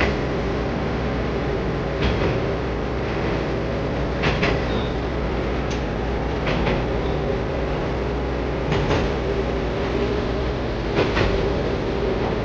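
Steady running noise of a diesel railcar heard on board: an even drone with a low steady hum. Occasional sharp clicks and knocks from the wheels on the track come at irregular intervals.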